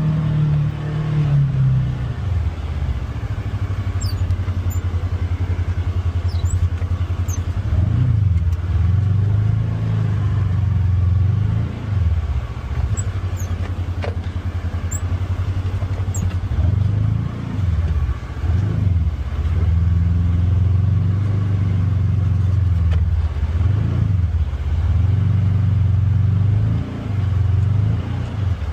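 Polaris Xpedition UTV engine running as the vehicle is driven off-road. The engine note drops and rises again several times as the throttle is let off and opened back up.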